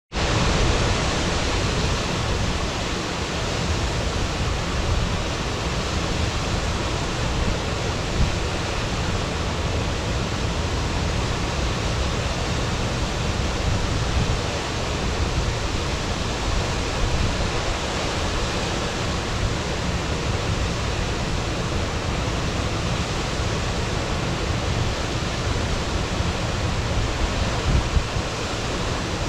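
Waterfall: water pouring and splashing into its pool in a steady, dense rush of noise.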